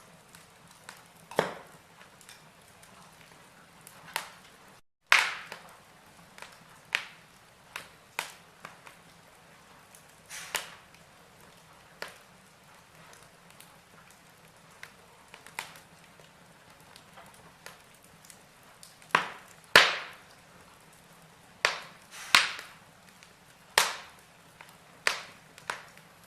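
Wood fire of burning logs in a fireplace, crackling with sharp, irregular pops and snaps over a faint hiss. There is a brief gap of total silence about five seconds in.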